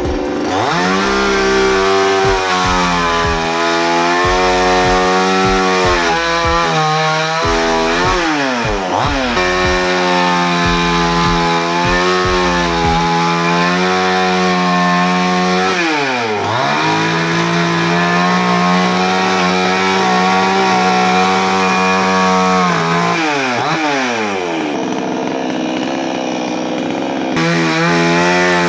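Camron Gold 58 cc two-stroke chainsaw engine running at high revs. It drops back toward idle about three times and revs up again each time.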